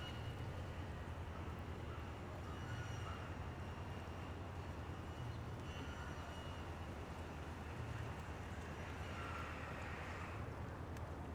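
A few faint, short bird chirps from the feeder birds over a steady low rumble of outdoor background noise.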